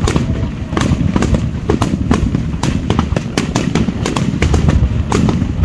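Aerial fireworks shells bursting overhead: a dense run of sharp cracks and pops, several a second, over a continuous low rumble.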